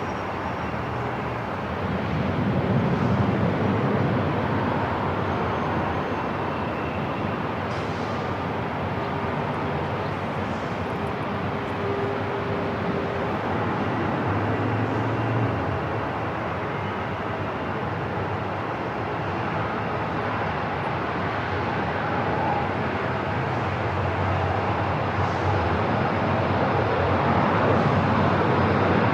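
Airport ambience: a steady wash of noise over a low rumble, with a few faint tones drifting through, swelling a little about two seconds in and again near the end.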